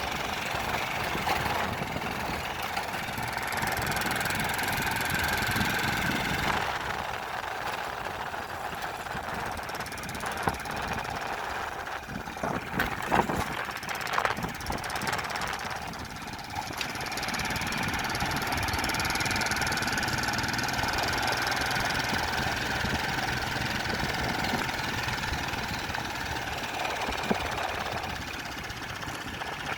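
An engine running steadily, with a few sharp knocks about midway through.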